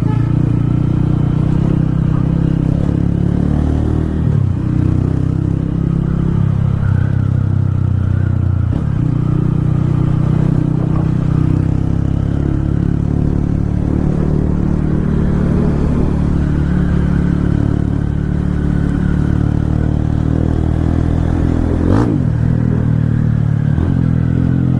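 Small single-cylinder motorcycle engine running steadily while riding, with one sharp click near the end.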